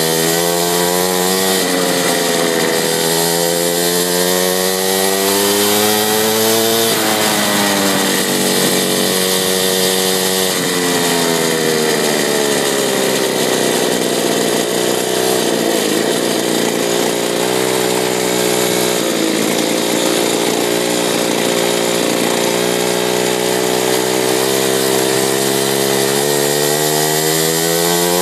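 Mini bike's small engine running under load, its pitch climbing as the throttle is held open and dropping sharply when it is let off, several times over, with a steady hiss underneath.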